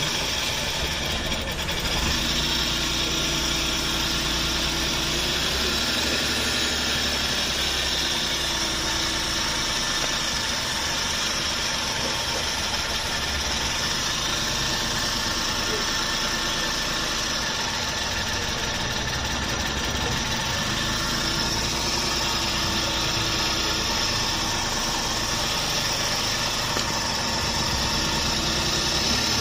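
Suzuki DA64V van's small three-cylinder engine idling steadily after being flooded; it runs again but compression on cylinder one was found low, so it is still being watched.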